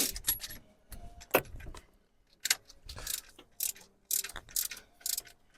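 Ratchet wrench clicking in short, irregular runs, with a brief pause about two seconds in, as a 27 mm socket tightens the timing chain tensioner on the engine.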